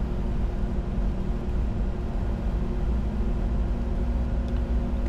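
Steady cockpit noise of a Bombardier Challenger 605 business jet in flight: a constant rush of airflow over a low drone, with a few steady hum tones.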